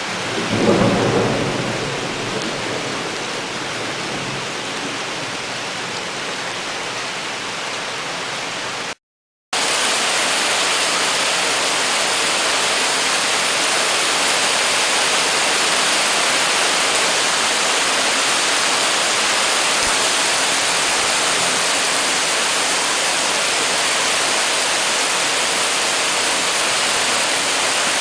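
Torrential rain pouring down in a steady hiss, with a low rumble of thunder in the first couple of seconds. The sound cuts out briefly about nine seconds in, then the downpour carries on a little louder.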